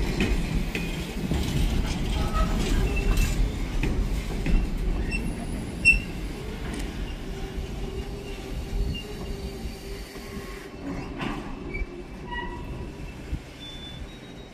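A train moving through the station, its low rumble dying away over the seconds, with short high squeals from the wheels and a steady hum in the second half.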